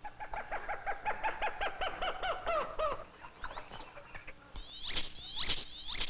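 Bird calls: a rapid series of repeated notes, about five a second and falling slightly in pitch, for the first three seconds, then higher buzzy notes near the end.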